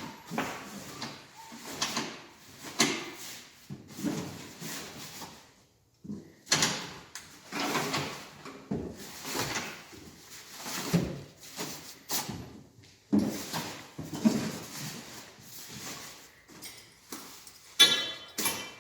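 Waterproof camouflage fabric cover being unfolded and put back over the boat by hand: irregular rustling and flapping with knocks, and a louder rasping sound near the end as it is fastened.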